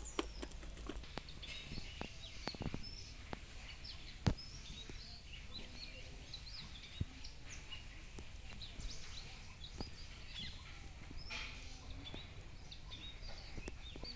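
Birds chirping and calling outdoors, with scattered light taps and clicks. One sharper click comes about four seconds in.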